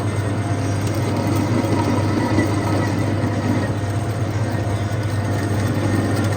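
Machinery running steadily with a low, even hum.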